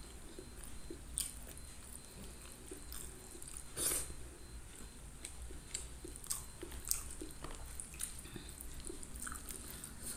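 A person chewing a mouthful of fish and rice close to the microphone: irregular mouth clicks and smacks, the loudest about four seconds in.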